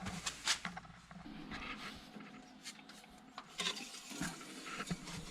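Quiet handling noises: scattered light clicks and taps with some rubbing, as small parts and tools are handled around the engine after an oil fill.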